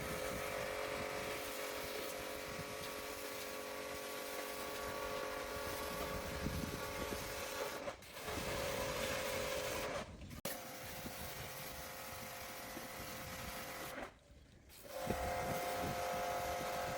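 A motor-driven workshop tool running with a steady whine, switched off and on again briefly about eight, ten and fourteen seconds in; after the last restart the whine sits a little higher.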